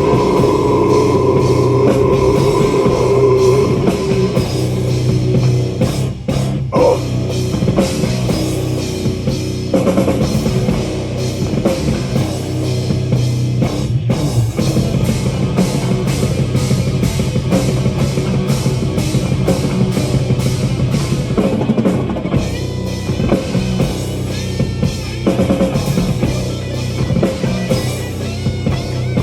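Live metal band playing an instrumental passage: distorted guitars and bass over a drum kit hammering out the beat. A long note is held through the first few seconds.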